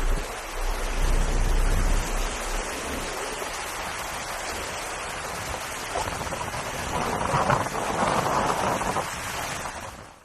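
Steady rushing noise of heavy rain and floodwater, with a low rumble in the first couple of seconds and a louder swell of splashing water between about seven and nine seconds in, before it fades out at the end.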